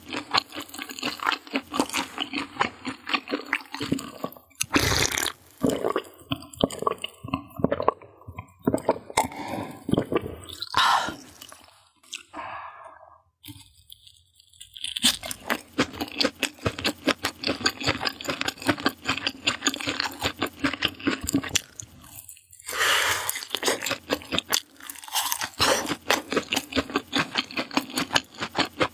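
Close-miked crunching and chewing of deep-fried skewered meat (chuan chuan), with a short pause about halfway through.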